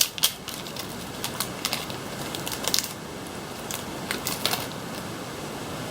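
Pokémon trading cards being handled and flipped through: scattered light clicks and soft rustles at irregular moments over a steady low hiss.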